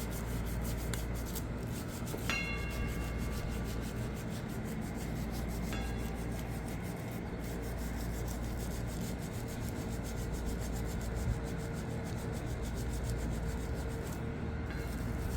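Steady scrubbing, a surface being rubbed back and forth to lift caked-on grime, with a brief ringing tone about two seconds in.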